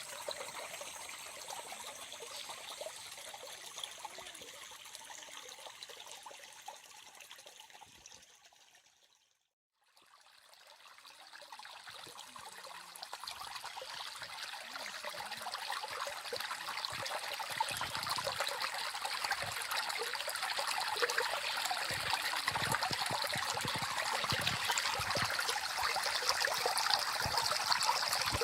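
Small stream trickling and babbling over its bed. It fades out to silence about a third of the way in, then fades back up and is louder by the end.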